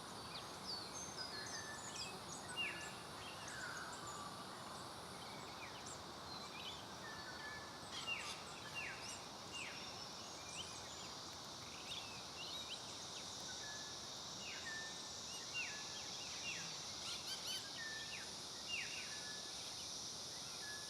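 Small birds chirping in short, sharp calls, scattered throughout and some in quick runs, over a steady high insect drone and an even outdoor hiss.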